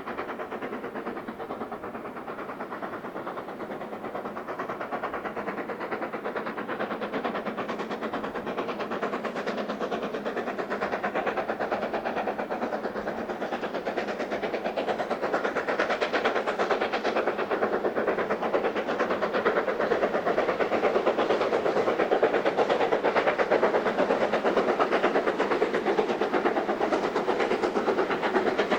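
Steam locomotive working a train, a fast pulsing rumble that grows steadily louder as it approaches.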